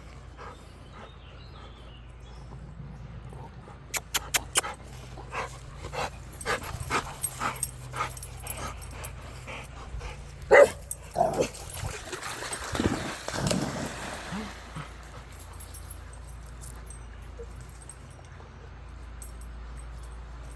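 A dog barking and whimpering in short calls, loudest about halfway through, with a quick run of sharp clicks a few seconds in.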